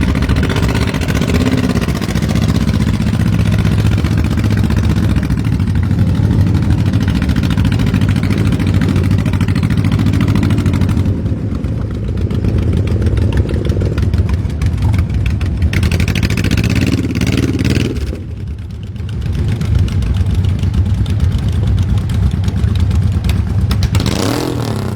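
Several motorcycle engines running together with loud pipes, rumbling and revving as the bikes pull away one after another. One bike sweeps up and down in pitch near the end as it rides past.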